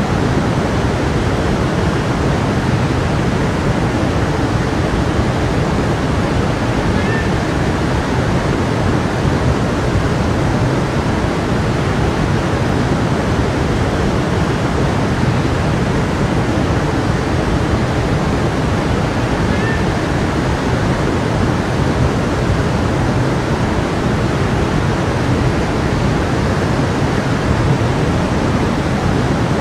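A stream of water rushing and babbling in a steady, even flow, with two faint brief chirps about seven and twenty seconds in.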